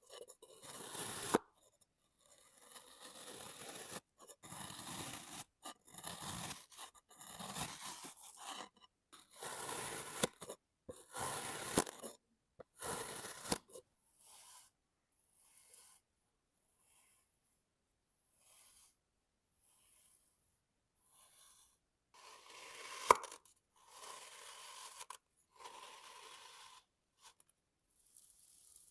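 Packed sand being cut in a series of separate scraping cuts. They come thick at first, thin out and grow fainter in the middle, then pick up again, with one sharp click about 23 seconds in.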